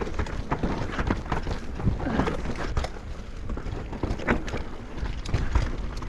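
Mountain bike riding down a rough dirt trail: tyre rumble and frequent knocks and rattles from the bike over roots and rocks, with wind buffeting the action-camera microphone.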